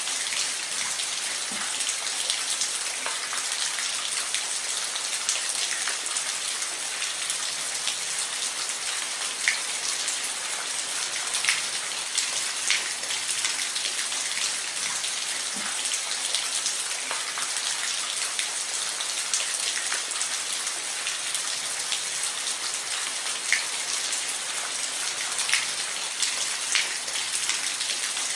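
Steady rain falling on a roof: a dense even hiss with scattered sharper drops ticking through it.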